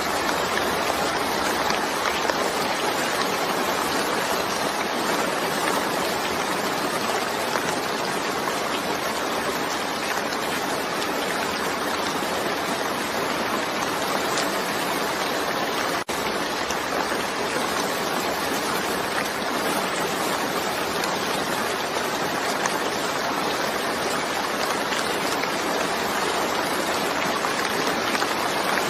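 Steady rain: an even hiss with no thunder, broken only by a momentary dropout a little past the middle.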